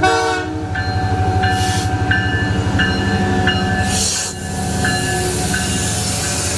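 Canadian Pacific diesel-hauled train passing at close range with a steady heavy rumble; a horn blast cuts off just after the start. A grade-crossing bell then rings, one stroke about every 0.7 s.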